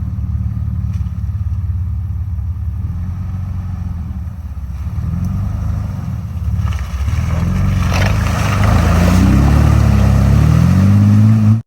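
Off-road Jeep engine running, then revved up and down several times in the second half, getting louder as it works. The sound cuts off abruptly near the end.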